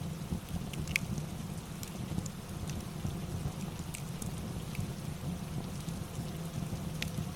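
Rain ambience: an even hiss over a steady low rumble, with scattered sharp pops of a crackling fireplace.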